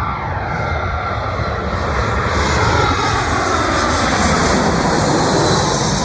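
Airbus A320 airliner on approach passing close overhead: jet engine noise swells about two seconds in, with a whine that falls in pitch as the aircraft goes by.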